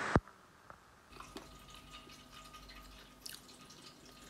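A brief loud hiss at the very start cuts off sharply. It is followed by faint, scattered wet mouth clicks as a person chews a bite of a soft, grainy lentil-and-jaggery sweet with her mouth closed.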